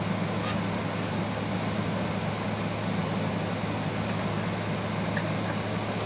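A room fan running steadily: a low hum under an even rush of air, with two faint light ticks, one about half a second in and one near the end.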